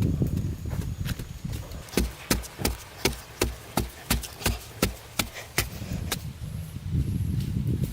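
A run of about a dozen sharp chopping blows from a hand tool, roughly three a second, starting about two seconds in and stopping near six seconds.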